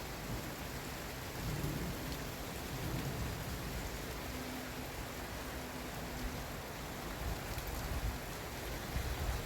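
Heavy thunderstorm rain falling in a steady hiss, with low thunder rumbling beneath it.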